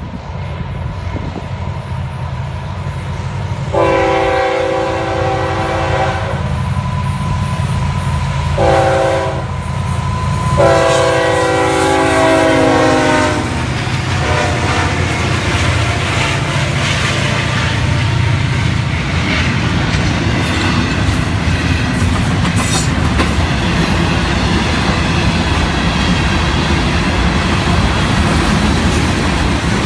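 Freight train passing: the lead diesel locomotives' multi-note air horn sounds three blasts, long, short, long, over the engines' rumble, then the steady rumble and clatter of freight cars rolling by.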